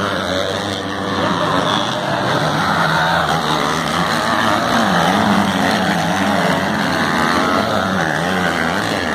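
Racing motorcycle engines revving up and down as the bikes race around the track, their pitch rising and falling continuously.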